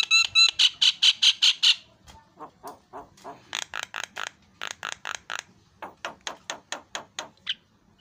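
Javan myna (jalak kebo) calling in a rapid series of sharp, harsh repeated notes, about four or five a second. The notes are loud for the first two seconds, then come softer in quick runs.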